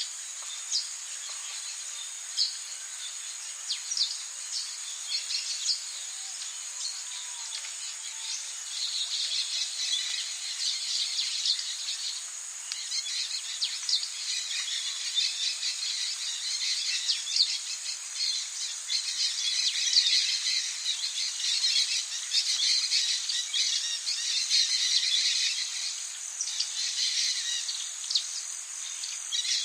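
Rainforest ambience: a steady high insect drone with many short bird chirps over it, getting busier from about nine seconds in.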